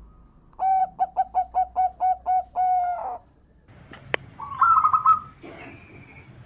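Zebra dove (perkutut) cooing: a rhythmic run of about nine short coos ending on a longer drawn-out one, the song used as a master call for training doves. About four seconds in a sharp click comes, then a quicker, higher trilled coo.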